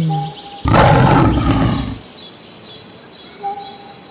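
Lion roaring once: a single rough roar lasting about a second and a half, starting just under a second in.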